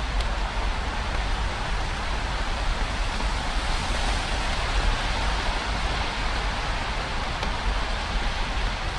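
Steady rain hiss over a low rumble, with a few faint drop ticks.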